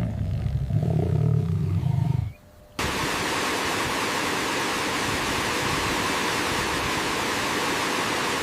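A deep animal roar ends about two seconds in. After a brief pause, a steady rushing noise like running water takes over.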